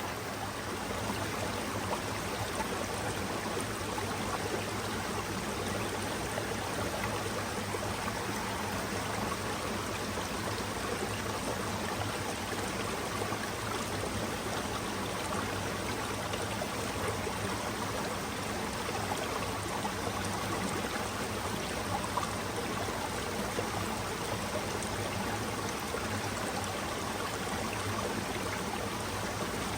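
Mountain stream running steadily over rocks: an even rush of flowing water with trickling and gurgling in it.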